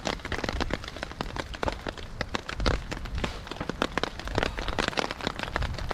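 Steady rain falling, with a dense, irregular patter of individual drops striking close by.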